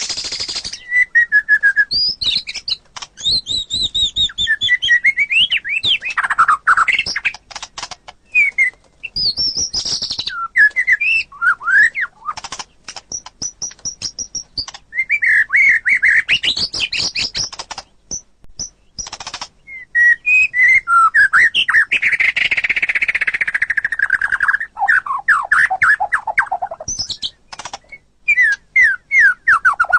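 White-rumped shama (murai batu) singing a long, varied song of clear whistles, rapid trills and sweeping notes, phrase after phrase with short pauses.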